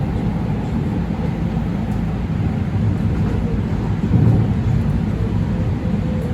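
LA Metro light rail train running between stations, a steady low rumble that swells briefly about four seconds in.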